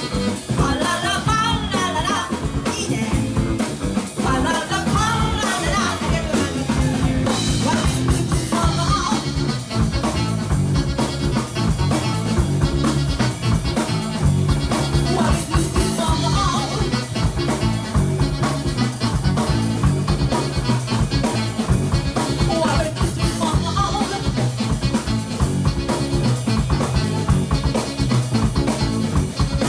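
Live band playing an upbeat song with a drum kit keeping a fast steady beat under guitar and a wavering melody line.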